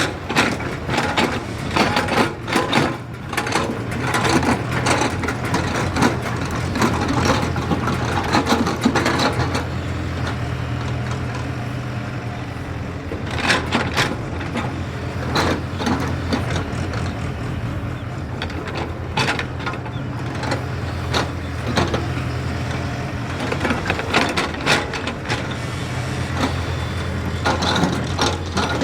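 JCB excavator's diesel engine running steadily, with frequent clanks, cracks and crunching of the working machine over it, thickest in the first third and again about halfway through.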